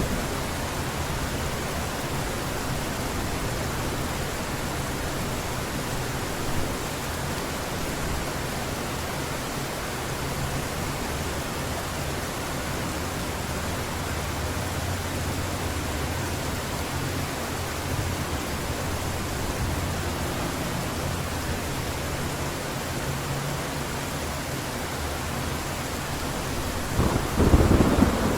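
Heavy rain falling steadily, with a low rumble of distant thunder underneath and a louder thunderclap near the end.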